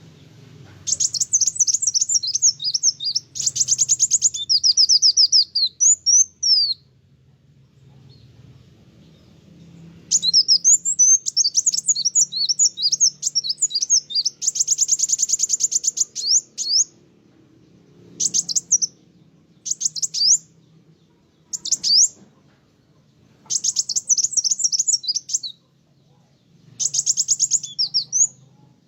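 Kolibri wulung sunbird singing in fast, high, twittering phrases. Two long bursts of song are followed by a string of short bursts roughly every two seconds.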